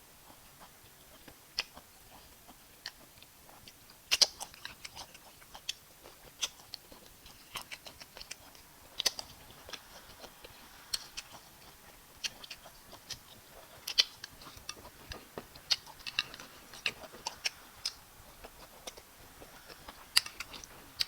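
Close-miked eating sounds: wet lip smacks, chewing and mouth clicks at an irregular pace, from a person eating fufu with bitter leaf soup.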